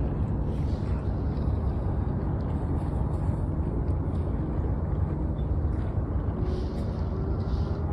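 Steady low rumble of wind and surf at the seashore, even in level with no distinct waves or other events.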